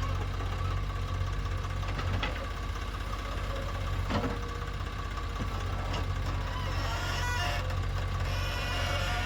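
Diesel engine of heavy earth-moving machinery running steadily with a deep rumble, with a couple of sharp knocks about two and four seconds in.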